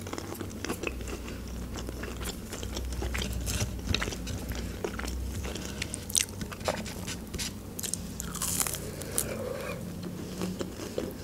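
Close-miked chewing and biting of breaded chicken nuggets: a steady run of small crunches and wet mouth clicks.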